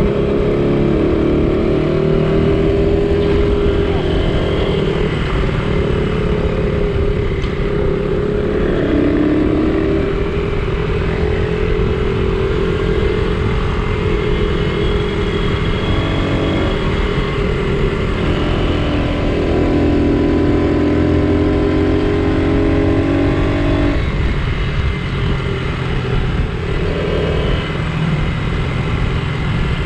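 Small vintage Honda motorcycle engine running under way, its pitch stepping up and down several times with throttle and gear changes, over a steady low rumble.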